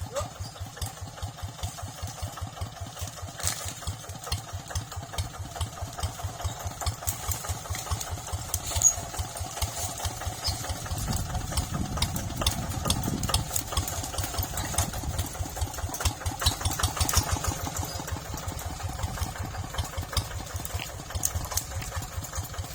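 Tractor engine running with a slow, even pulsing beat, swelling louder for a couple of seconds around the middle, with light rattling clicks over it.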